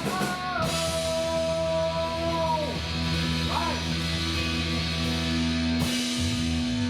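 Live rock band music: electric guitars bend notes, then hold long ringing notes, with a cymbal-like wash coming in near the end.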